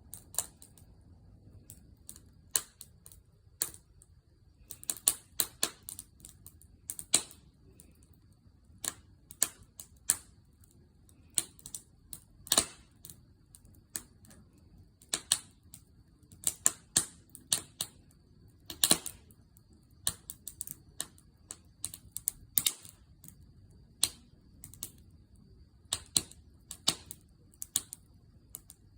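Wood fire crackling, with sharp snaps and pops at uneven intervals, some in quick clusters, over a low, soft rush of burning.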